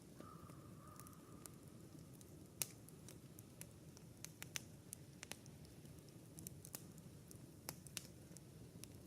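Wood campfire crackling softly: irregular sharp snaps and pops, a few louder than the rest, over a low, soft fire rush. A faint drawn-out high note sounds for about a second near the start.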